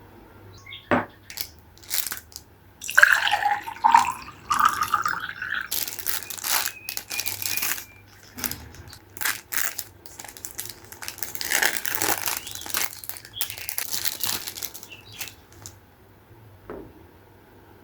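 Packaging crinkling and rustling in irregular bursts, with a few sharp clicks.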